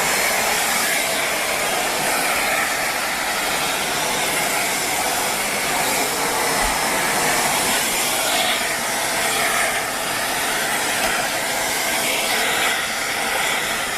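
Shark Rotator Speed Lift-Away upright vacuum cleaner running steadily, with suction air rushing through the hose and brush attachment as it is worked along a door.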